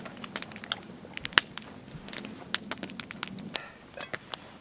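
Wood campfire crackling and popping: irregular sharp snaps, one louder pop about a second and a half in.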